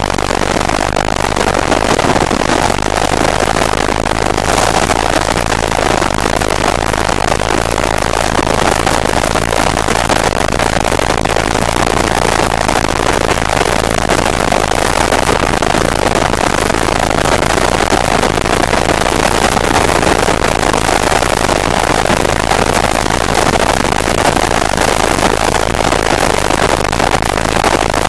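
250 cc motorcycle ridden flat out during a top-speed run: steady, loud wind rush over the microphone with the engine running hard underneath.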